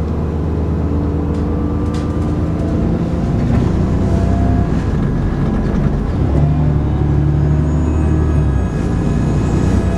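Dennis Trident 2 double-decker bus engine running under load, with the high whine that bus enthusiasts call 'hoovering'. The engine note shifts about a third of the way in and again a little past halfway, then a whine climbs slowly in pitch as the bus picks up speed.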